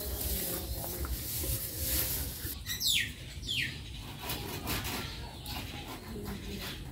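A bird calling twice about three seconds in, two quick falling whistled notes about half a second apart, over a low background rumble.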